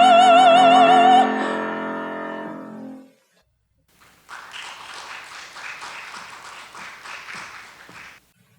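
A singer's final held note with vibrato over piano, cut off about a second in and ringing away in the room. After a short silence comes applause for about four seconds, which stops abruptly.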